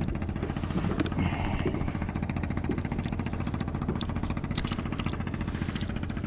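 A motorboat engine running steadily at an even speed, with a few faint clicks over it.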